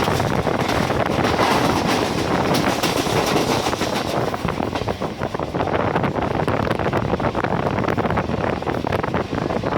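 Passenger train running along the track: a steady loud rushing noise dotted with rapid clicks and rattles, with wind buffeting the microphone.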